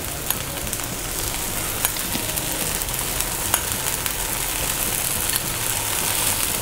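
Ragi dosa batter sizzling on a hot griddle (tava) over high heat, a steady frying hiss with scattered small crackles that slowly grows louder.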